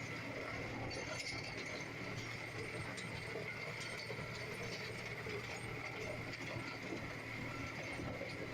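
John Deere 5045D diesel tractor running steadily while driving a rotavator, a constant engine drone with continuous mechanical clatter and a steady high whine.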